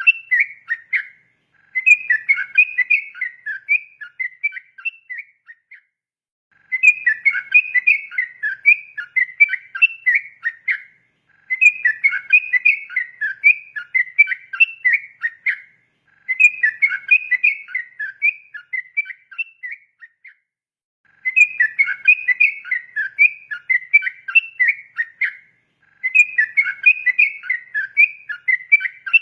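Sooty-headed bulbul (trucukan) singing: phrases of rapid, chattering whistled notes, each about four seconds long, repeated about every five seconds with short pauses between.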